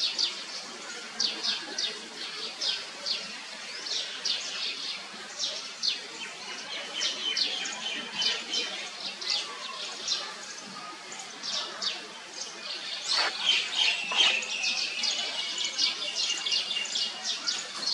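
Small birds chirping, a dense run of short, high chirps several times a second. A longer held high note and a sharp falling call come in about thirteen seconds in.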